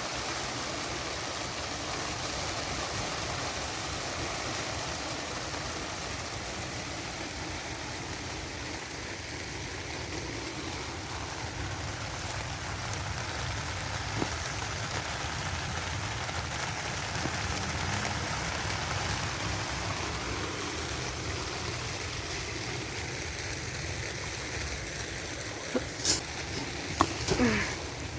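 Steady rain falling, an even hiss, with a couple of sharp clicks near the end.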